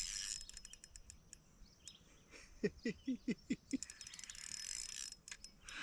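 Ultralight spinning reel's drag clicking rapidly as a big hybrid striped bass pulls line against it, with a run of about six short falling chirps in the middle.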